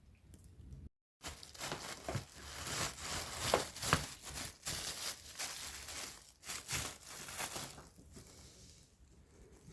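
Crinkling and rustling, with many short sharp crackles, starting just after a brief dropout about a second in and dying down near the end.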